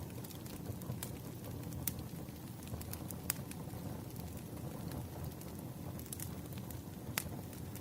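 Campfire burning: a steady low rumble of flames with scattered sharp crackles and pops of burning wood, a few louder than the rest.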